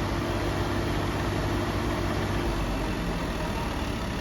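Tractor diesel engine running steadily, a low continuous hum.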